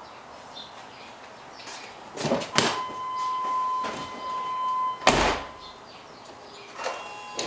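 Chevrolet Tahoe door opening with a couple of clunks, then a steady electronic warning tone. The tone cuts off as the door slams shut about five seconds in, and a couple of light clicks follow near the end.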